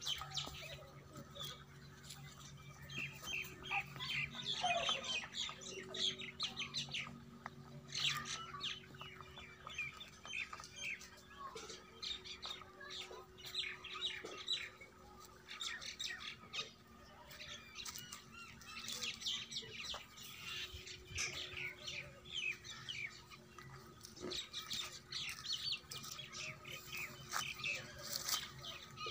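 Small birds chirping in short, repeated calls, overlapping and scattered throughout, over a faint steady hum.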